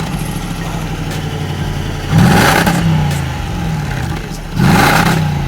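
Range Rover Sport's engine through a BCE aftermarket exhaust, idling and then blipped twice, about two seconds in and again near the end, each rev climbing sharply and dropping back to idle.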